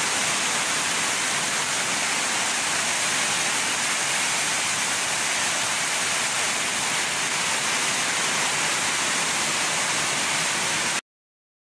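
Heavy rain pouring down, a steady, even hiss that cuts off suddenly near the end.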